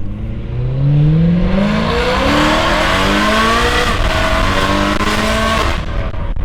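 BMW E92 M3's 4.0-litre V8 accelerating hard through a loud aftermarket exhaust. The engine pitch rises and steps up through the gears, then drops away just before the end when the throttle comes off.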